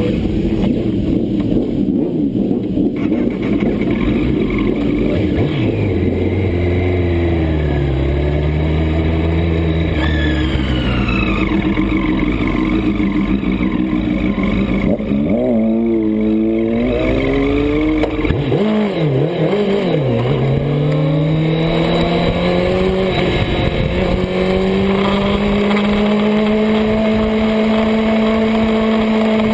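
Racing superbike engine at full throttle, its pitch climbing through each gear and dropping at the shifts. About midway there is a run of quick rev rises and falls, like downshifts for a corner, before it pulls hard again in a long rising run near the end.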